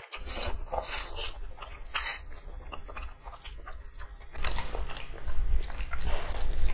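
Close-mic'd chewing and biting of fried chicken lollipops: a run of irregular short clicks of teeth and mouth on the food.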